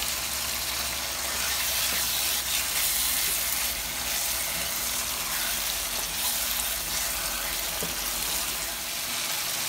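Goat ribs and masala sizzling steadily in a hot frying pan with a spoonful of yogurt just added, stirred through with a wooden spoon.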